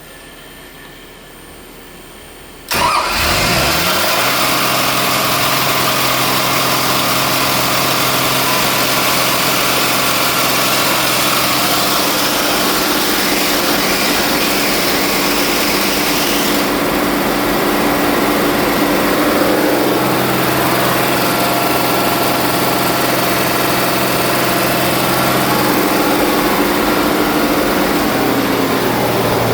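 Daewoo D0846 inline-six diesel fire-pump engine, uncoupled from its pump, starting up about three seconds in, its pitch climbing as it catches, then running steadily. A high hiss above the engine note drops away about midway.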